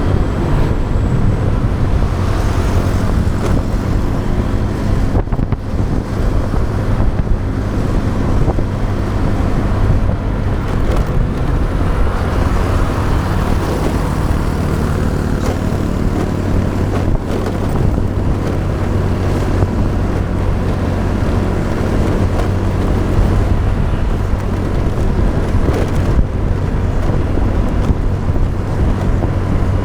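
Motorbike engine running at a steady cruise, a constant low hum, with wind rushing over the action camera's microphone and road noise.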